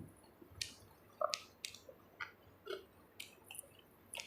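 Faint chewing: wet mouth smacks and small clicks, one every half second or so.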